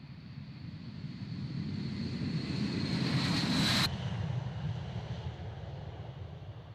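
Jet noise from a B-52 bomber's eight jet engines: a deep rumble with a high whine that grows louder for about four seconds, drops suddenly, then goes on lower and fades.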